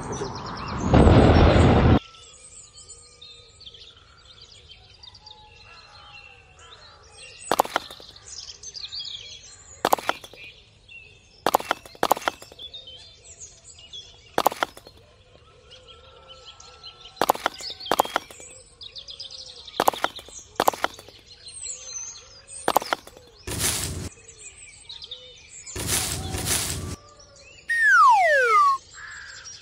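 Birdsong in the background, with sharp clicks every second or two as tiny miniature bricks are set down by hand. There are a few short bursts of noise, and near the end two falling whistles.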